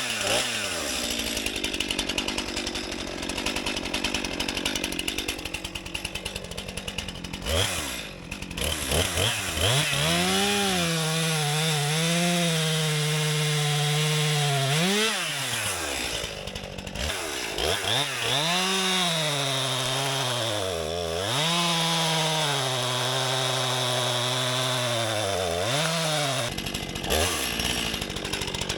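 STIHL MS261 C-M two-stroke chainsaw running, steady and lower for the first few seconds, then revved high and cutting, its pitch sagging under load and recovering several times with short drops back between cuts.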